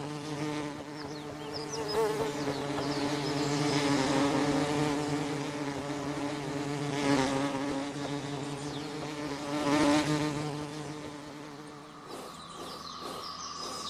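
Steady, low-pitched buzzing of a stinging insect in flight, swelling and fading as it moves about. Near the end the buzz drops away.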